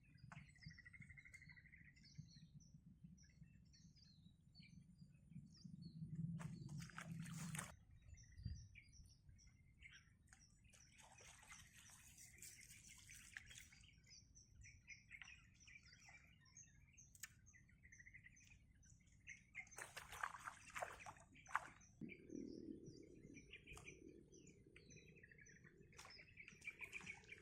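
Faint birds chirping in short, repeated calls, with a low rumble underneath and a few brief rustles or knocks.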